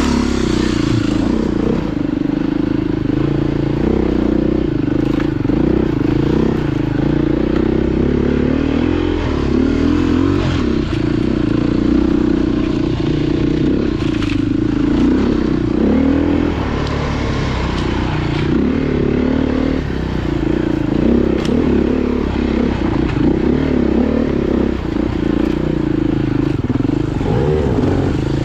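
Off-road motorcycle engine running continuously, its pitch rising and falling as the throttle is worked.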